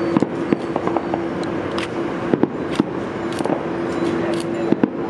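Distant fireworks going off, a dozen or so sharp pops and bangs at uneven intervals, over the steady hum of a boat engine.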